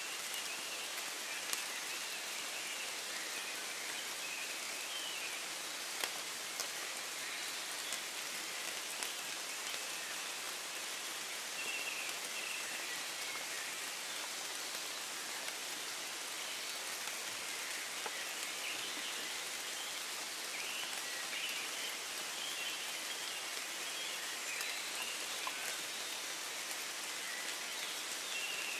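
Steady rain falling in woodland, pattering on leaves, with a few louder single drops. Birds of a dawn chorus call faintly through it, more often in the second half.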